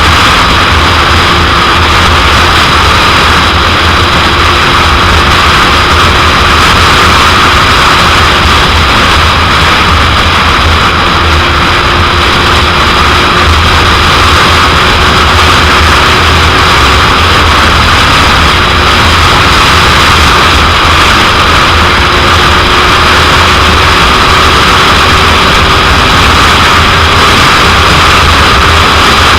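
Loud, steady wind noise battering the microphone of a 2001 Suzuki GSX-R750 sport bike at road speed. The bike's inline-four engine is heard faintly under it as a thin note creeping slowly up in pitch.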